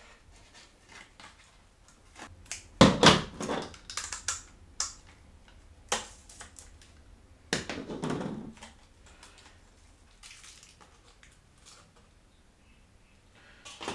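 Handling of computer parts and their packaging: irregular clicks, knocks and short plastic crinkles, loudest about three seconds in and again about eight seconds in.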